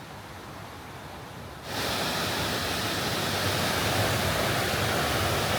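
Steady rushing roar of a waterfall, coming in abruptly about two seconds in after a quieter steady hiss.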